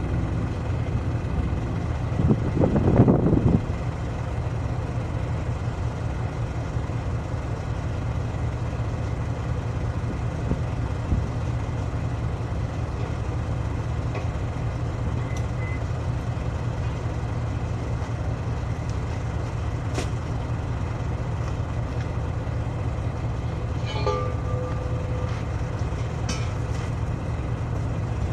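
A large engine idling steadily, with a brief louder swell about three seconds in and a few faint clicks and short tones near the end.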